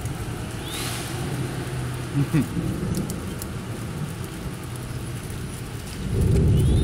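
Steady rain falling on a wet street and yard. About six seconds in, a louder low rumble comes in.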